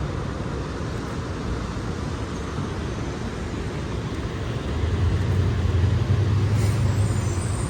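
Steady city traffic noise, with a deeper, louder rumble coming in about five seconds in, like a heavy vehicle going by.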